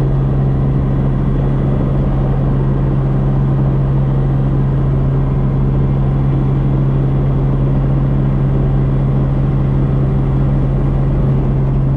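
Helicopter engine and rotor drone, steady and loud, with a strong low hum and rumble that does not change.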